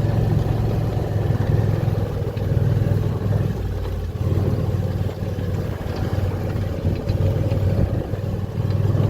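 A vehicle engine running steadily with a low hum that swells and eases a little.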